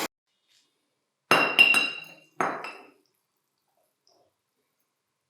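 Small hard parts clinking together in two quick clusters a second apart, about five light strikes in all, each ringing briefly.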